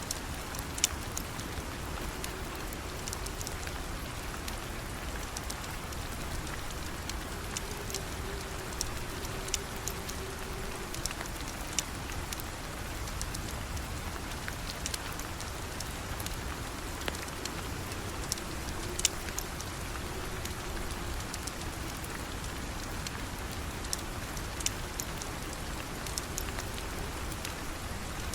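Steady rain falling, with scattered sharp ticks every second or so.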